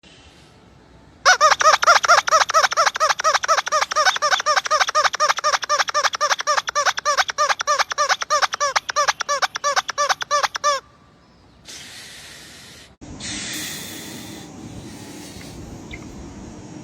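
A rapid, evenly spaced series of high squeaks, about five a second, lasting about ten seconds and stopping abruptly, followed by a softer hiss.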